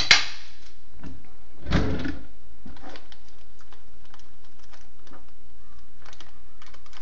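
Close handling noises: a sharp crackle right at the start, a duller knock about two seconds in, then light scattered clicks and taps.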